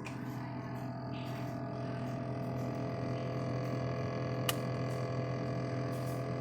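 GE refrigerator giving off a steady buzz, a hum of several held tones, with one brief click about two-thirds of the way through. The buzz is a fault that a repair was supposed to fix and did not.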